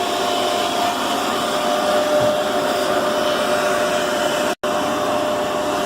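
Steady whirring, fan-like machinery noise with a steady mid-pitched hum running through it, cut off for a split second about four and a half seconds in.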